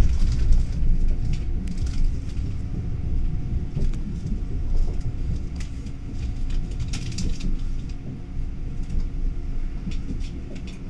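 Steady low rumble of a moving electric passenger train heard from inside the carriage, with a faint steady hum and scattered light clicks and rattles.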